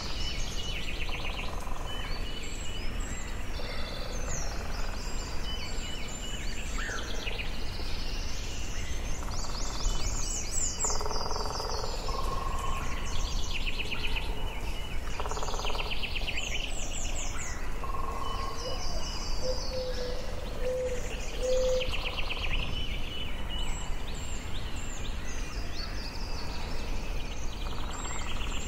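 Forest birdsong: several birds singing and calling over one another, with fast high trills and whistled phrases, and a short run of lower notes about two-thirds of the way through, over a steady low background noise.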